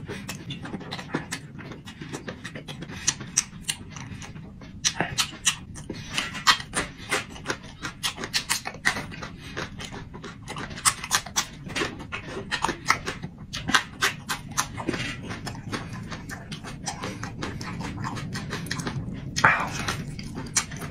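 Close-up eating sounds from a man chewing braised lung and windpipe: a dense, irregular run of wet mouth smacks and clicks, with one louder smack near the end.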